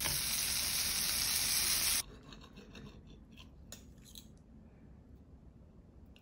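Food frying in a pan: a loud, even sizzle that cuts off abruptly about two seconds in. After it comes the quieter scraping and clicking of a knife and fork cutting through crisp pan-fried toast on a plate.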